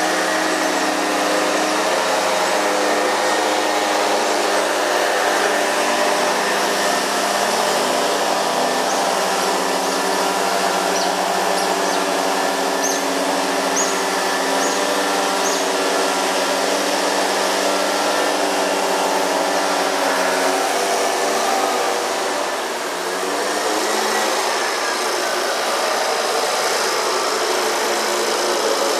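Loud, steady running of a motorized machine, a dense hum of several tones that shift in pitch about two-thirds of the way through.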